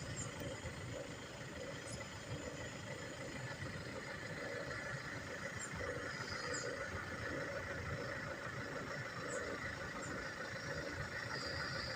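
Steady outdoor background rumble with a few faint, short high chirps scattered through it.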